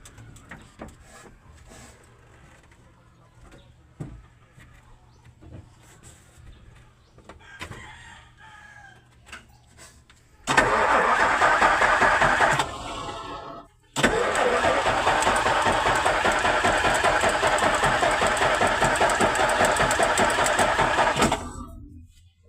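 Isuzu 10PC1 V10 diesel engine being cranked over with the starter. A short crank about ten seconds in, a brief pause, then a longer run of about seven seconds with a rapid, even pulsing. It stops abruptly near the end.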